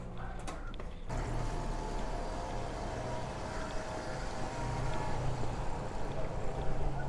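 A few light clicks, then from about a second in a steady hum of a car engine running close by in street ambience, growing a little louder toward the end.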